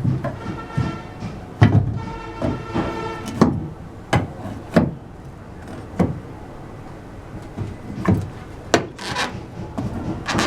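Irregular sharp knocks and scraping of wood, like wooden pieces being handled and shifted in a workshop.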